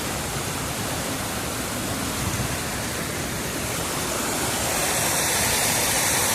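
Waterfall rushing steadily, growing slightly louder near the end.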